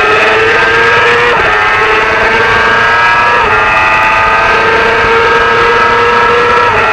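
Supersport racing motorcycle engine at high revs under hard acceleration, its pitch climbing steadily and dropping sharply at each upshift: three quick gear changes, about a second and a half in, three and a half seconds in, and near the end.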